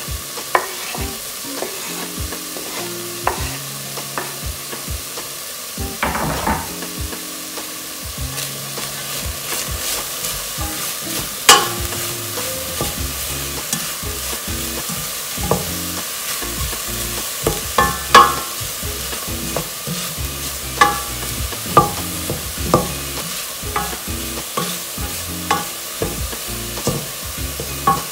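Ground beef and chopped vegetables sizzling in a stainless steel pot as a wooden spoon stirs them, with frequent sharp knocks of the spoon against the pot, two of them much louder than the rest.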